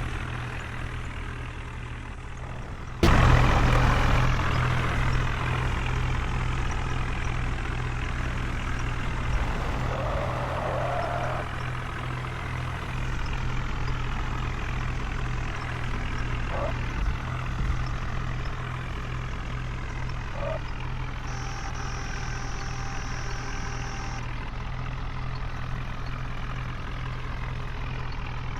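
Heavy diesel engine running steadily, jumping sharply louder about three seconds in and then settling.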